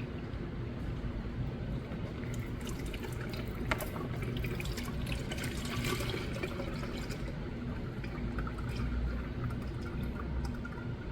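Engine oil pouring and splashing, with drips, over a steady low hum.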